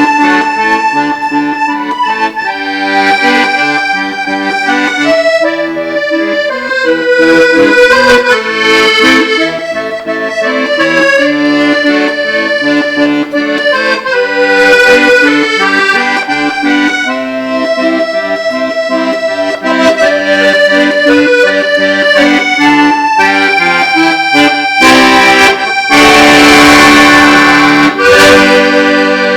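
Accordion playing the melody of a slow Korean ballad over sustained chords. About 26 seconds in it swells into a loud, full held chord.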